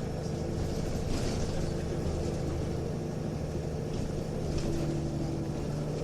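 Nissan Diesel UA (KL-UA272KAM) city bus's diesel engine and ZF 4-speed automatic, heard from inside the cabin while the bus drives along, a steady drone whose pitch shifts a little now and then. This bus runs with a sound altered from a normal UA272, held at high revs before upshifts, which the recordist links to possible torque-converter slip.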